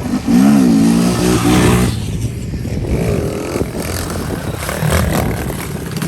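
Mini bike engine revving hard, its pitch rising and falling sharply as the throttle is blipped, then a second, weaker rise and fall a few seconds later.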